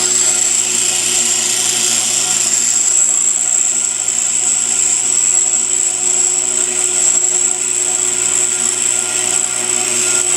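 Pedestal grinder wheel grinding a high-speed steel lathe tool bit, taking metal off the bottom of the bit. It is a steady, high-pitched grinding hiss over the low hum of the grinder motor.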